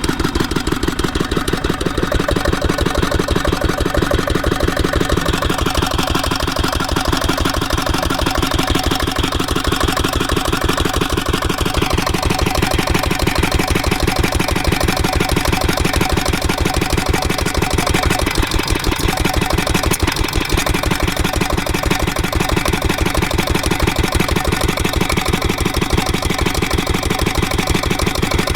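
8 hp Lister-type single-cylinder diesel engine running fast and steadily, its firing beats rapid and even.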